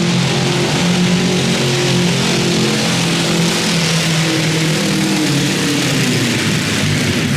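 Modified garden pulling tractor engine running hard at high, fairly steady revs, its pitch wavering a little and dipping slightly near the end.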